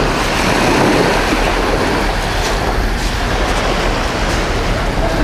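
Waves breaking on a beach, with wind rumbling on the microphone, as a steady noise.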